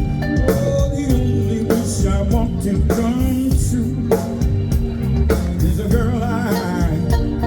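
Live band playing a slow soul ballad, with the drums keeping an even beat of about one stroke every second and a bit. A wavering lead line rises above the band near the end.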